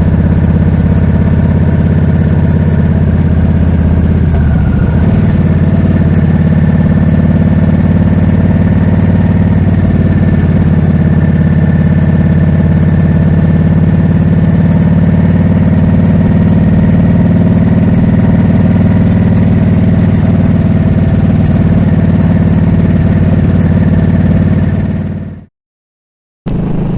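Harley-Davidson Nightster's V-twin engine running at a steady pitch, with a slight shift in its lowest note about four seconds in. Near the end it fades out to a second of silence, then comes back abruptly.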